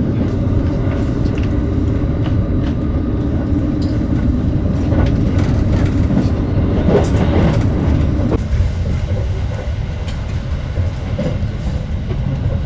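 Passenger train running, heard from inside the carriage: a steady low rumble with scattered clicks and knocks from the wheels and track. It eases off a little about two thirds of the way through.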